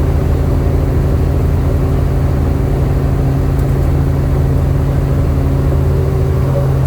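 Helicopter running: a steady, loud mechanical drone with a strong low hum and several fainter steady tones above it.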